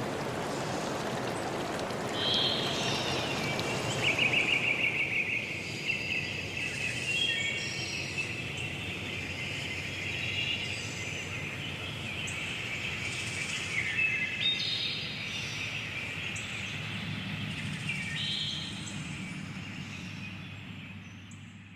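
A stream's rushing fades away over the first five seconds, giving way to several songbirds singing and chirping together in a forest chorus. Everything fades out at the very end.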